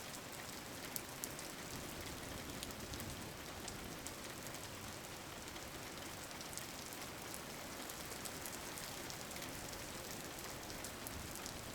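Steady rain falling, a dense even patter with fine crackling drops.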